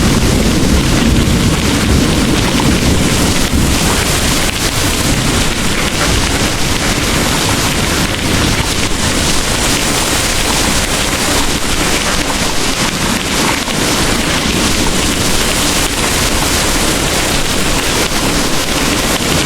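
Heavy rain pouring steadily as a dense, even hiss, with a low rumble of thunder dying away over the first few seconds.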